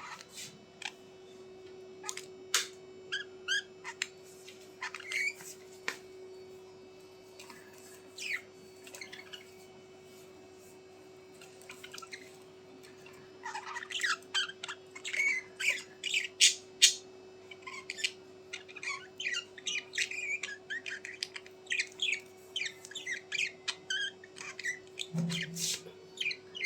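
Small birds chirping and squawking: scattered calls at first, then a rapid, near-continuous run of calls from about halfway, over a steady low hum.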